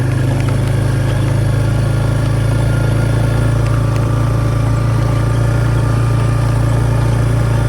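Four-wheeler (ATV) engine running steadily at low, even revs.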